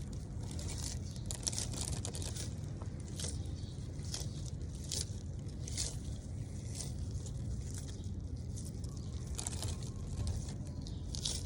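Sulcata tortoise biting and tearing at its food, with irregular crunching and crackling strokes, over a steady low rumble.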